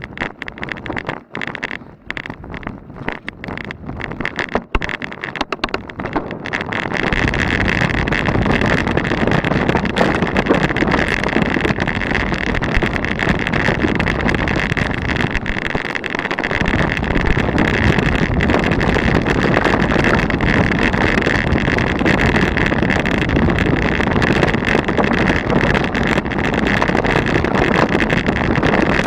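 Mountain bike with a Weapon Cannon 35 suspension fork riding down a rocky, loose trail: scattered knocks and rattles at first, then, about seven seconds in, a steady loud rush of wind on the camera's microphone over the bike's constant chatter on the rocks.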